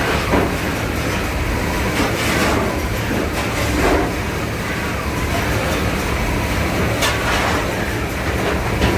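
Penn oscillating steam engine of a paddle steamer running steadily: a continuous mechanical clatter with light knocks recurring every second or so.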